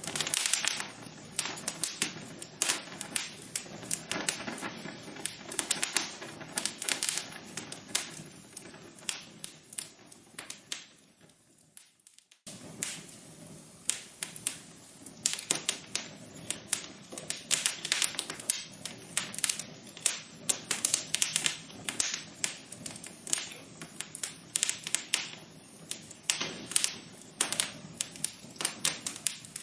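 Wood fire in a fireplace crackling and popping in irregular quick snaps over a low hiss. About twelve seconds in it fades briefly to near silence, then resumes.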